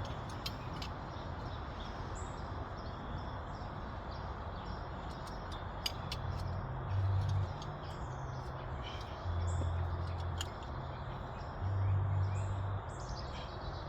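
Small birds chirping over a steady low outdoor rumble, with a few light clicks. About halfway in, a low hum starts coming and going in short stretches, the loudest sound here.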